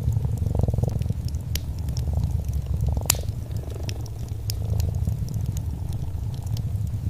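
A cat purring in a steady low rumble that swells and eases every few seconds, over a crackling fireplace fire with scattered sharp pops. The loudest pop comes about three seconds in.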